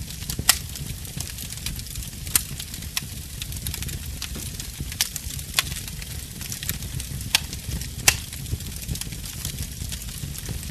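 Wood fire crackling in a fireplace: a steady soft hiss and low rumble with irregular sharp pops and snaps, a handful of them louder than the rest.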